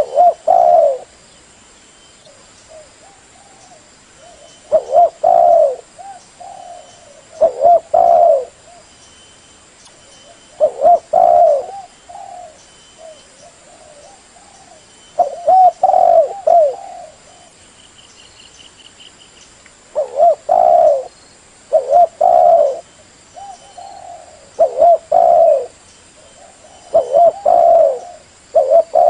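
Hen spotted dove cooing: short, low coo phrases repeated every two to three seconds, sometimes in quick pairs. It is the female call that stirs a male to answer, used as a lure in trapping.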